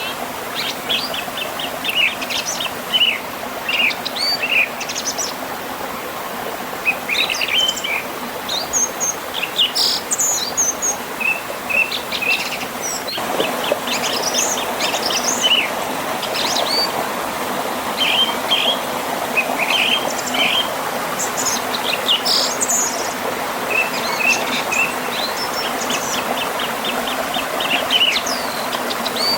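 A river running steadily past a small waterfall, with several birds singing over it in many short chirps and quick trills.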